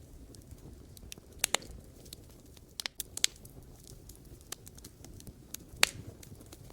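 Wood fire burning with a low steady rumble and irregular sharp pops and crackles from the burning logs, the loudest pops about a second and a half in, around three seconds in, and near the end.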